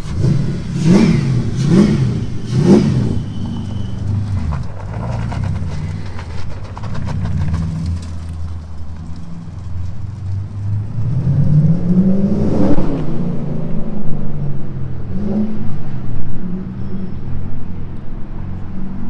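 Chevrolet LS1 5.7-litre V8 in a Mazda MX-5 drift car, blipped three times in quick succession, then running at a steady low speed. About halfway it revs up more slowly and drops back, with one more short blip a few seconds later.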